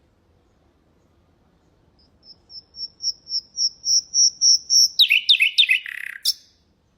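Nightingale singing one phrase. About two seconds in, a string of high, piping whistles swells steadily in loudness, then breaks into a quick run of lower, rasping notes that stops abruptly.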